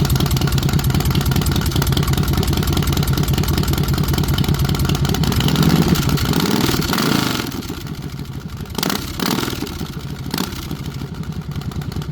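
2007 Thunder Mountain Keystone chopper's V-twin engine running loudly. About six seconds in it is revved once, the pitch rising and falling back, then it settles to a quieter idle with a few short sharp sounds near the end.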